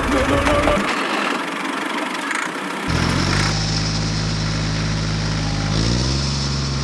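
An indistinct noisy stretch, then about three seconds in a steady engine idle begins and runs evenly, its pitch settling slightly lower near the end.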